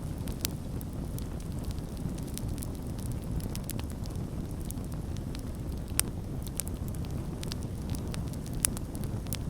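Campfire burning steadily with a low rushing rumble and irregular sharp crackles and pops from the wood, the loudest pop about six seconds in and another near the end.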